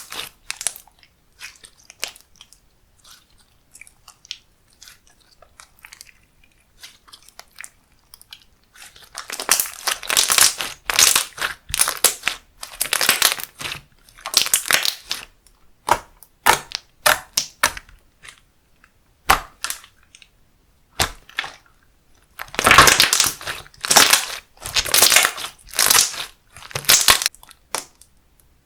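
Hands pressing and squishing slime: crackling, crinkly squelching bursts with some sharp clicks, mostly sparse at first and coming in repeated groups from about nine seconds in.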